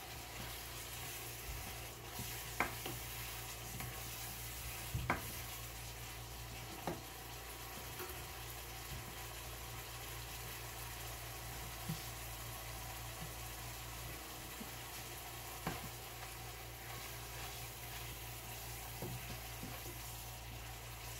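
Tomato masala sizzling in a nonstick wok over a gas burner, with a spatula stirring it and knocking against the pan about five times.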